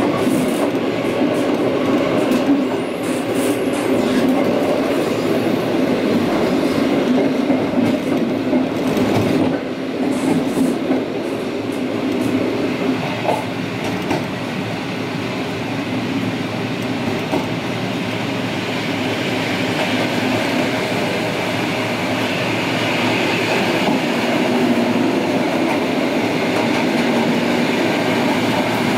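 EN57AL electric multiple unit train running on the rails at close range, a continuous, steady train noise.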